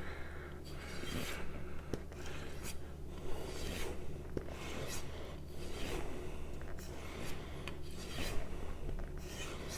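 AEB-L stainless steel knife blade stroked along a strop, in rhythmic rubbing strokes about one and a half a second.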